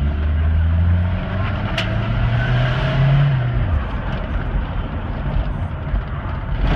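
Toyota 22R-TE turbocharged four-cylinder pickup engine pulling while driving, with steady road noise. The engine note climbs, then drops away sharply near the middle.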